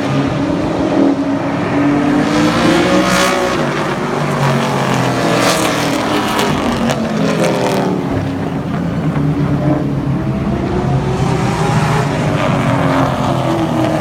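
Several racing super trucks' engines running hard on the track, overlapping as trucks pass, with the pitch rising and falling on each pass.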